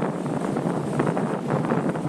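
Wind gusting over the microphone: a rushing noise with irregular buffeting thumps.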